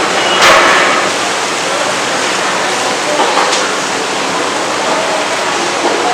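Elephant foot yam pieces sizzling in hot oil, a steady frying hiss, with a brief louder surge about half a second in.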